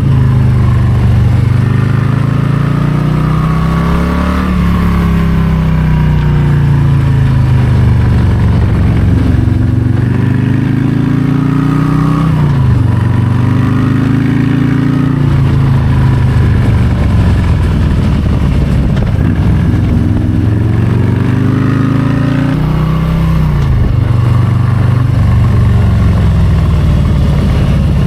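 A 2022 Harley-Davidson Low Rider ST's Milwaukee-Eight 117 V-twin runs loudly under way. The revs climb and then drop sharply a few times, about four, twelve and a half, and twenty-three seconds in, as the throttle is rolled on and off.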